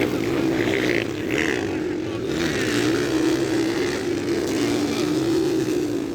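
Motocross bikes of the 125–160 cc class racing, their engines making a steady drone whose pitch wavers up and down as the riders work the throttle.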